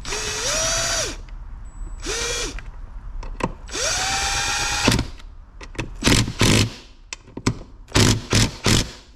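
Cordless drill-driver running screws into the engine case in three short runs, its motor whine rising in pitch and then holding steady. Then a quick string of sharp knocks and clicks near the end.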